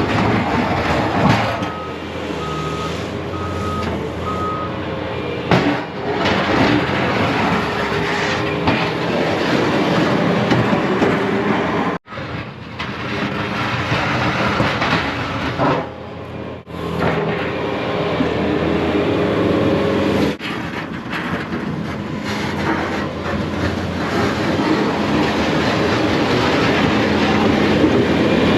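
Plow truck running while its blade scrapes and clatters through snow over pavement, giving a steady rumbling noise. A little after two seconds in, four short beeps sound.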